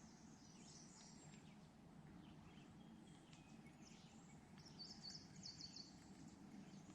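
Very quiet outdoor ambience: small birds chirping faintly, with a quick run of high chirps about five seconds in, over a low steady background rumble.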